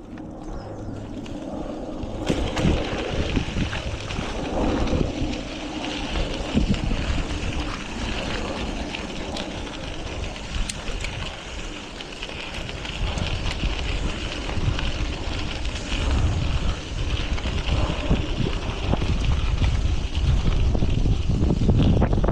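Wind buffeting the microphone of a moving cyclist: a rough low rumble with a steady hiss above it, growing louder toward the end.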